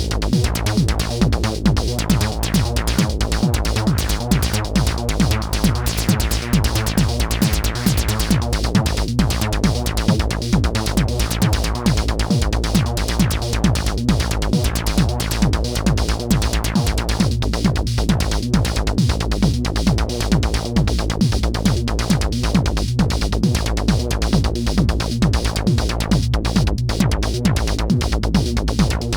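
Live techno played on a homemade modular synthesizer: a steady, continuous beat with synth tones over it, dry with no effects.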